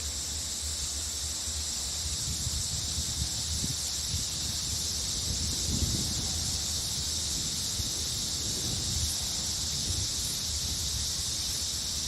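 Steady, high-pitched shrill of a rainforest insect chorus that does not let up, with irregular low rumbling underneath.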